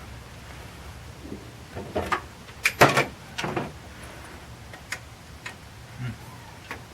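Hand tools knocking and clattering against engine parts during engine-bay work, a cluster of knocks about two to three and a half seconds in with a few lighter taps after, over a steady low hum.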